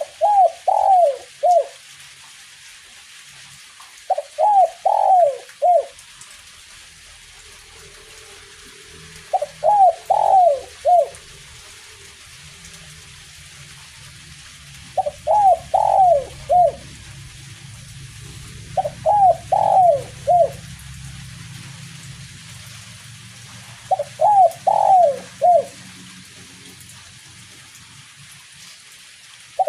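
Spotted dove (derkuku) cooing in repeated phrases of four or five short notes, a phrase about every five seconds, six phrases in all. It is the 'kuk 1' song type, the phrase closing on a single 'kuk'. A faint steady hiss of light drizzle lies under it.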